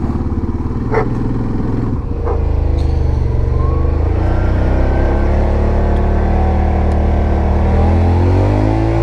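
An ATV engine running under way, its pitch rising as it speeds up a couple of seconds in and again near the end, with a couple of short knocks early on.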